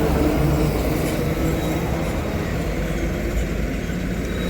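Heavy truck's diesel engine running steadily under load, a continuous low drone.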